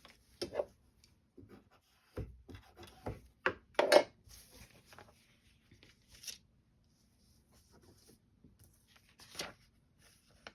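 Paper foundation pattern and fabric being handled and flipped: scattered rustles and light knocks, the loudest about four seconds in.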